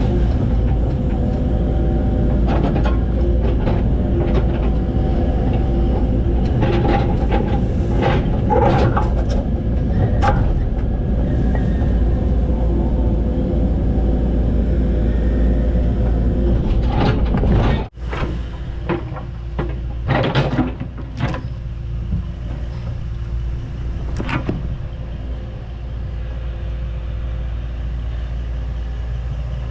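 Excavator's diesel engine running steadily under load with a low rumble, while the machine's bucket and linkage give off scattered knocks and metal clanks. About eighteen seconds in the sound cuts out abruptly, then the engine carries on quieter with a few more clanks.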